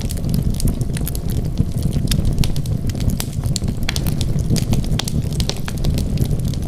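Wood fire burning, with a steady low rumble under frequent sharp crackles and pops.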